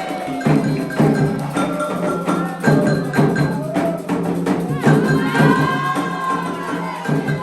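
Candomblé ritual music: hand percussion struck in a steady rhythm with a bright bell-like or wood-block tone, under voices singing a chant in long, sliding phrases.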